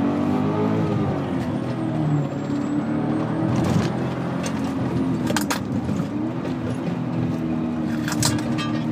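E39 BMW M5's 4.9-litre V8 heard from inside the cabin through a Billy Boat aftermarket exhaust, its revs rising and falling in the first couple of seconds and then holding steady. A faint high whine rides above it, the alternator ground noise from a phone charger, and a few short clicks come through.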